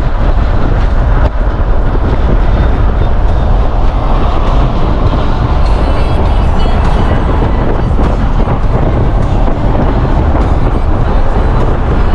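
Car driving at speed: a loud, steady rumble of road and wind noise.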